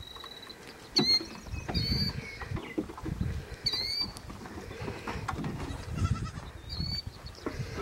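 Short, high chirps of small birds, a handful of times, over an uneven low rumble.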